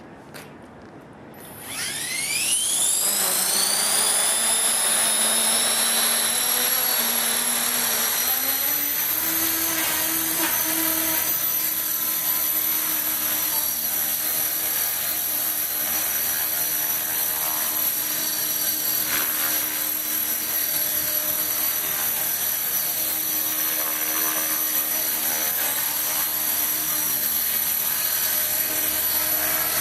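Radio-controlled Titan helicopter spooling up: a rising whine starts about two seconds in and settles within a few seconds into a steady high whine over the rotor hum. The hum climbs a step in pitch partway through as the head speed comes up, then runs steadily.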